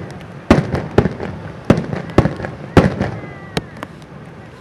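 Aerial firework shells from a starmine barrage bursting in quick succession: about six loud booms, roughly one every half second, ending about three and a half seconds in.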